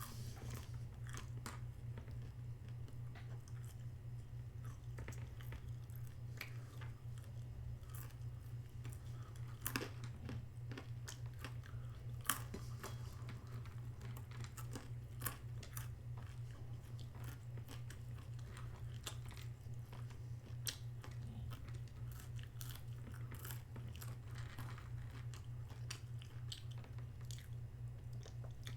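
Close-up chewing and crunching of a chicken burger and fries, irregular crisp bites and mouth sounds throughout, over a steady low hum.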